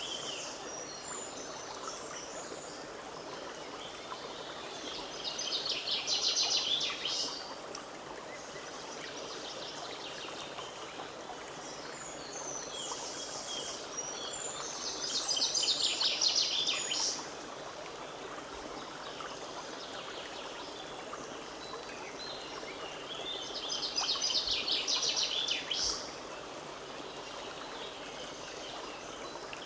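Forest stream running steadily. Over it, a songbird sings a loud trilled song three times, each about two seconds long, with softer bird chirps between.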